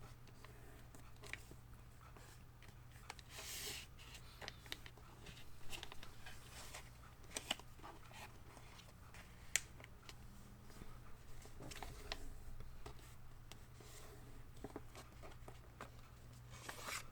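A sheet of paper being folded and creased by hand: soft rustles and scattered crisp ticks as the folds are pressed flat, over a faint steady low hum.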